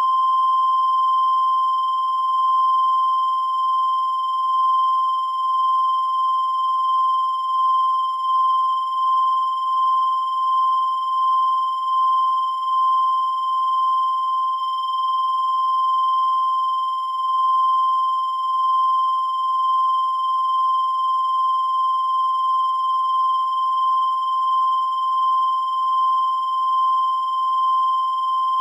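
A continuous high-pitched electronic tone holding one steady pitch without a break, its loudness wavering slightly.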